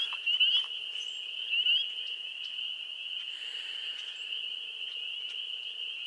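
Chorus of frogs calling at a pond: a dense, steady, high-pitched trilling, with a few louder calls standing out in the first couple of seconds.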